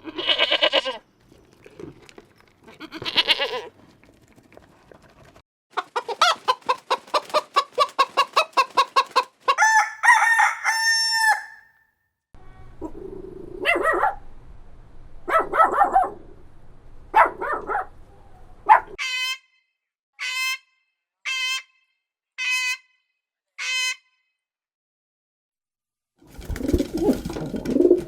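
Chickens calling in a series of short clips: a rooster crowing and hens clucking, with a run of about five short high peeps roughly a second apart in the second half.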